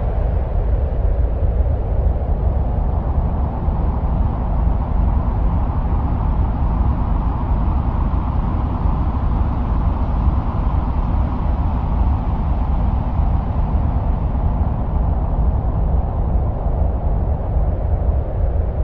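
Steady wind-like rushing and rumbling, presented as the sound of Mars. It is heaviest in the low end, swells slightly in the middle and eases a little near the end.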